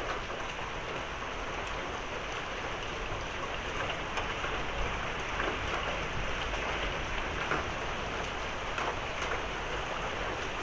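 Heavy rain falling steadily in a thunderstorm, mixed with small pea-sized hail, with scattered light ticks of hailstones and drops striking surfaces.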